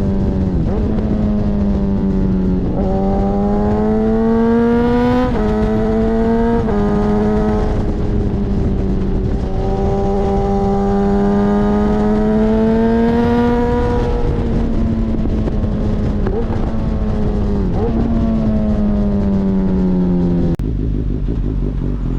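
Suzuki GSX-S1000 inline-four motorcycle engine through an Akrapovic exhaust, pulling through the gears. The pitch climbs and drops sharply at each of a few quick shifts, then holds steady for a while. It falls away near the end, with a sudden change about twenty seconds in.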